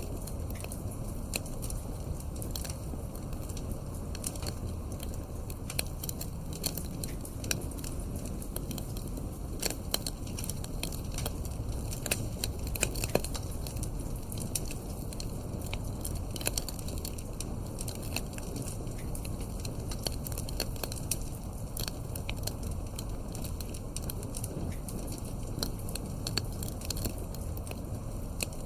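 Wood fire crackling in a fireplace: a steady low rumble of burning with irregular sharp pops and snaps throughout.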